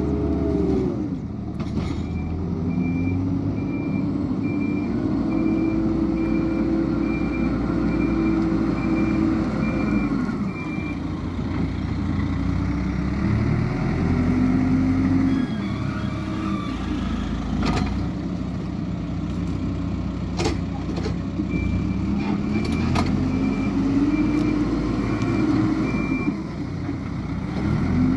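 Hidromek 102S backhoe loader's diesel engine revving up and dropping back over and over as it works, with its reversing alarm beeping about once a second in two spells. A few sharp clanks are heard among the engine noise.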